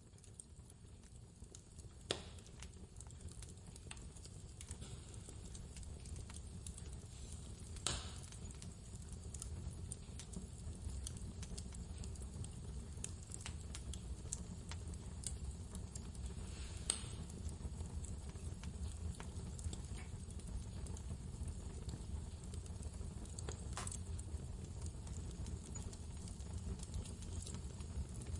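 Wood fire crackling, with a scatter of small ticks and four louder sharp pops, over a steady low rumble of blizzard wind. The sound grows louder over the first few seconds.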